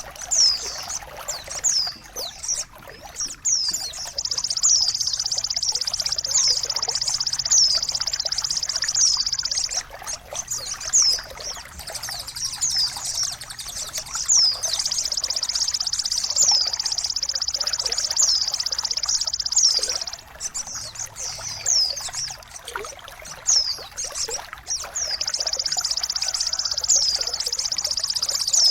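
Songbird therapy and tutoring audio: trickling water under a steady high-pitched bird trill, broken by clusters of short, quick down-slurred chirps. It dips briefly a few times.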